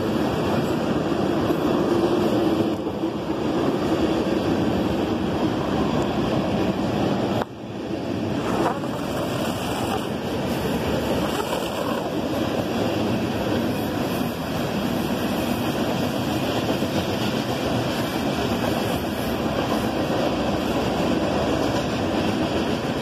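Loaded sand hopper cars of a Union Pacific freight train rolling past, a steady rush of wheel and rail noise that dips briefly about seven and a half seconds in.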